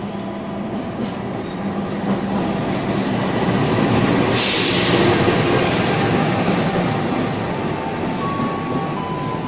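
CC 206 diesel-electric locomotive hauling a passenger train as it pulls in past the platform: a steady engine hum and wheel rumble that grows loudest as the locomotive passes, about four to five seconds in. A sudden burst of air hiss comes about halfway through and fades over a second, then the coaches rumble by.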